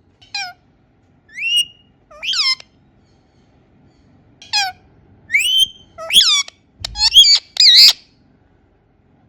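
Indian ringneck parakeet giving a string of short, shrill calls, several sliding up or down in pitch. After a pause the calls come faster and louder, loudest near the end.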